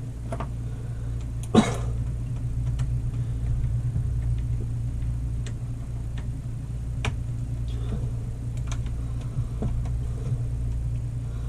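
Scattered light clicks and taps of wiring and small parts being handled, with one sharper click about one and a half seconds in, over a steady low hum.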